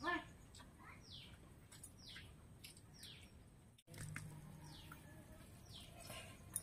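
A bird singing a series of high, falling whistled notes, repeated about once a second, with a brief louder call at the start.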